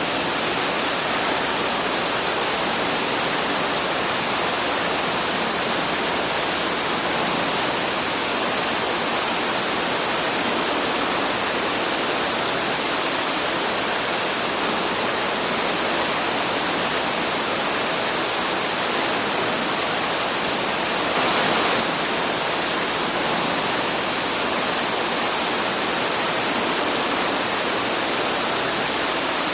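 Waterfall rushing steadily, an even roar of falling water, with a brief louder surge about two-thirds of the way through.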